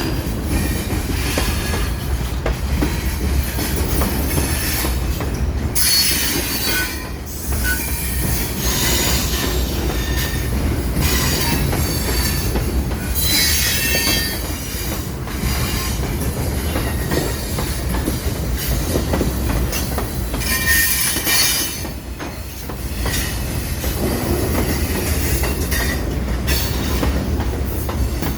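Train rolling past with a steady low rumble, and high-pitched wheel squeal that comes and goes every few seconds.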